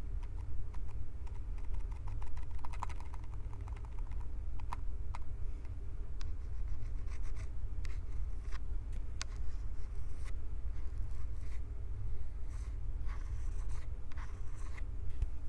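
Fingers gripping, rubbing and squeezing a Tascam recorder's microphones up close: scattered sharp ticks and short scratchy rubs over a steady low handling rumble.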